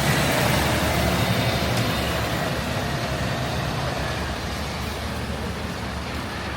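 Midtown street traffic: a heavy motor vehicle passes close by, loudest at the start and fading gradually over the next few seconds above a steady roadway hum.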